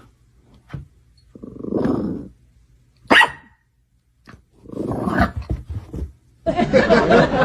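A dog barking and growling in several separate bursts, the loudest and longest near the end.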